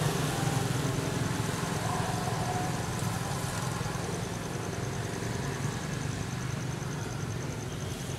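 A motor vehicle's engine running steadily, slowly fading, with a faint high pulsing tone behind it.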